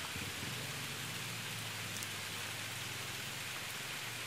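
Rain beginning to fall: a steady, even hiss of drops.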